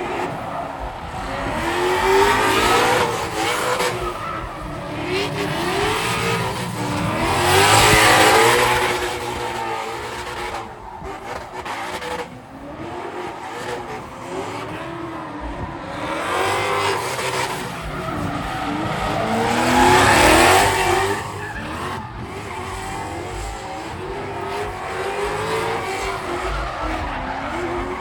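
Drift car engines revving up and down with throttle blips while the tyres squeal and skid, growing loudest twice, about a third of the way in and again about two-thirds through as the cars pass close.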